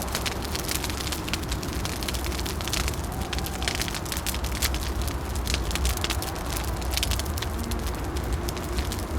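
Wood fire crackling, with dense, irregular small pops and snaps over a steady low rumble.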